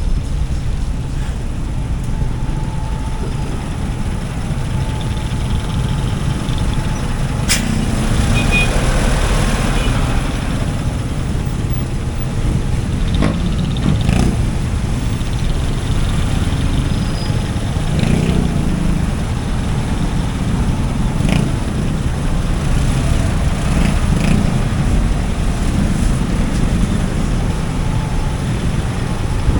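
Road noise of a motorbike riding through traffic: a steady low rumble of engine and wind, with a few short clicks and knocks.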